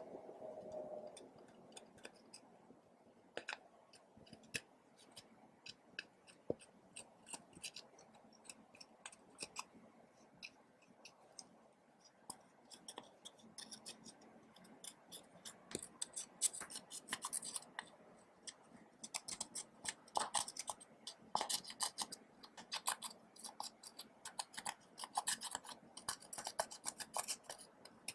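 Slime being worked by hand: a run of small sticky clicks and pops, sparse at first and growing busier and louder from about halfway through.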